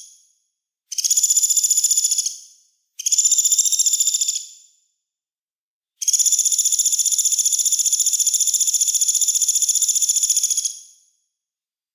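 A songbird's harsh, rasping buzz calls, the 'mbeset' rattle used in masteran training tracks: three bursts, two short ones of about a second and a half, then one held for about five seconds.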